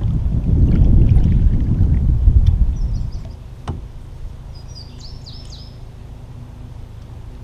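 A loud low rumble for the first three seconds that then drops away, a single sharp knock, and a small bird chirping a few quick notes about five seconds in over a faint steady hum.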